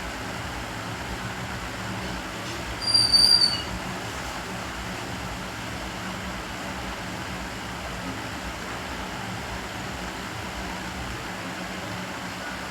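Steady room hum, with a single short, loud, high-pitched whistle-like squeal about three seconds in.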